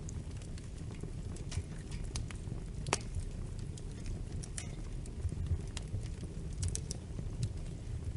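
Wood fire in a fireplace crackling: irregular sharp pops and snaps over a low steady rumble of burning, with the loudest pop about three seconds in.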